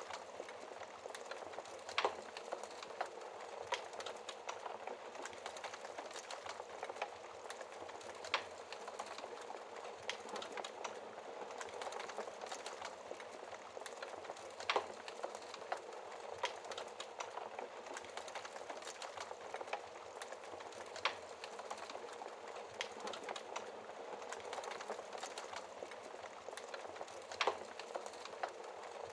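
Wood fire crackling steadily: a dense, fine crackle with a louder single pop about every six seconds.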